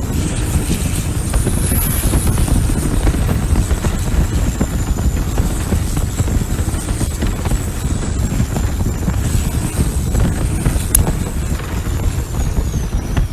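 Common-rail turbo diesel engine of a Thai longtail racing boat running steadily under way: a dense, loud low drone with a thin high whine over it that wavers and falls slightly near the end.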